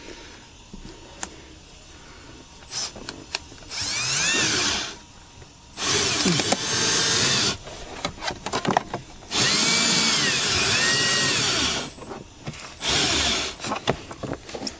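A handheld power tool cutting out a windshield, run in four bursts of one to two and a half seconds. Its whine rises and falls in pitch as the trigger is squeezed and eased.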